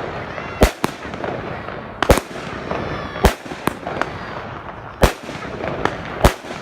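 Fireworks going off: about five loud, sharp bangs spaced a second or so apart, with smaller pops and crackling between them.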